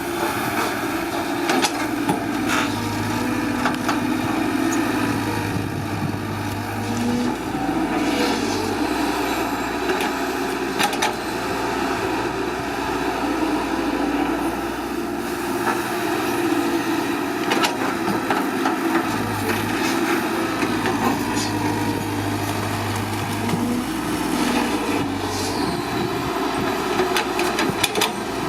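Small electric motors of a homemade toy dump truck and excavator whining steadily, with many scattered clicks and scrapes.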